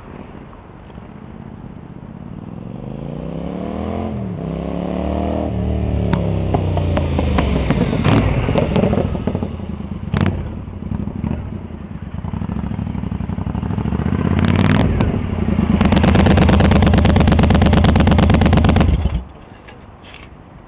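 Triumph Scrambler parallel-twin engine running through an aftermarket Mass Mojave exhaust, its pitch rising and falling as it revs and grows louder. It is loudest near the end, a rapid, steady exhaust beat at high revs, and then cuts off suddenly.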